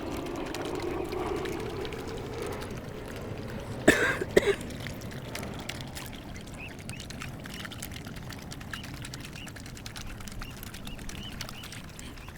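Water pouring and trickling steadily, loudest at the start. A brief loud burst about four seconds in, and faint short high chirps from small birds through the second half.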